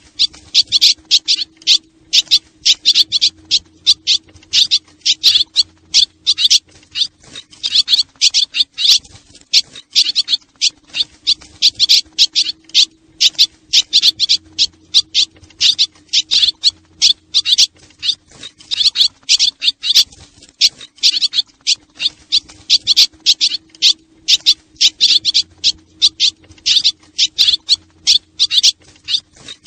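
Swallows chirping rapidly and continuously, a dense run of high, short chirps in quick clusters, with a faint steady low hum underneath. This is a swallow decoy call.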